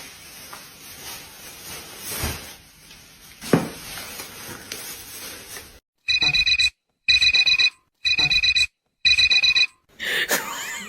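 A low hiss with a few knocks, then an electronic beeper sounds four times, about once a second, each beep a steady high tone lasting about half a second.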